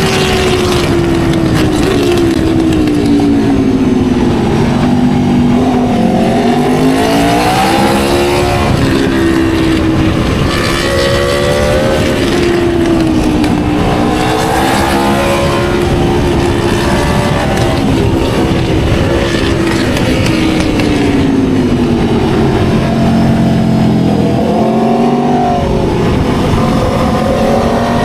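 Aprilia RSV4 Factory's V4 engine running hard, its pitch climbing and falling again and again as the bike accelerates and slows.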